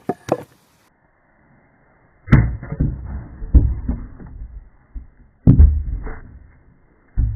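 Hatchet blade striking wood: four heavy thuds, a second or two apart, each followed by a short rumble.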